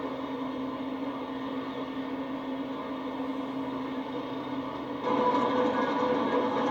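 A steady mechanical drone, like an engine running, with a held low tone; it becomes louder, with a higher tone added, about five seconds in.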